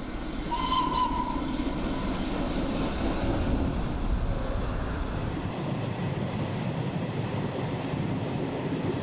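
Vintage Orient Express train with 1920s carriages pulling out of a station: a steady rumble of the moving train, with one short whistle about a second in.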